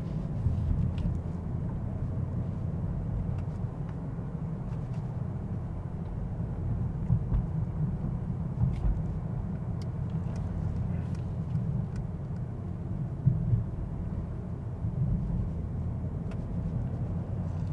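Steady low rumble of a Mercedes-AMG S63 on the move at city speed, heard from inside the cabin, with a few faint clicks.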